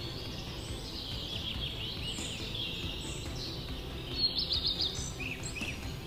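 Woodland birds chirping and singing in quick high notes, with a fast trill of repeated notes about four seconds in, over a low steady background noise.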